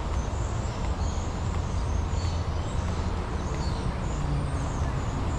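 Small birds chirping with short, high calls scattered all through, over a steady low rumble.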